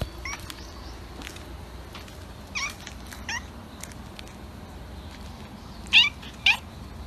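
A cat meowing in short, high calls, about five in all, the two loudest close together near the end.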